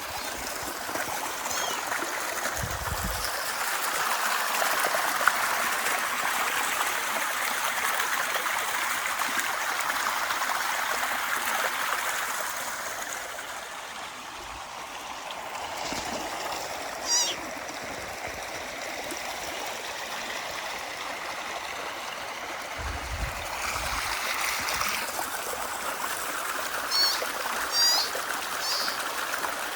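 Stream of water running steadily, with short high chirps about halfway through and a few more near the end.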